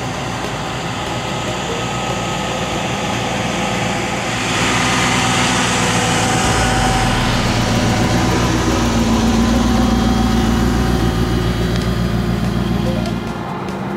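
Maserati Shamal's twin-turbo V8 running at low, steady revs as the car rolls slowly. It gets louder a third of the way in, has a deeper note from about halfway, and drops back near the end.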